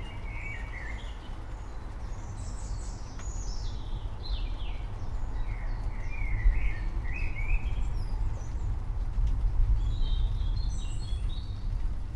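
Birds chirping and calling in short bursts throughout, over a steady low rumble and a faint background hiss.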